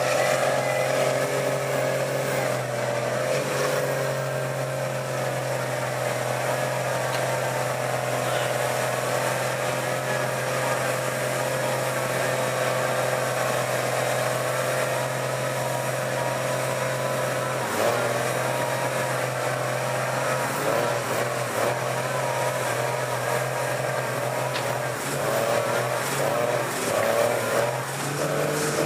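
Truck engine running at a steady pitch.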